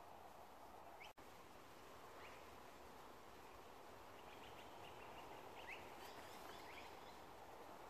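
Near silence: faint outdoor ambience with a few faint, short bird chirps scattered through it. The sound drops out for an instant about a second in.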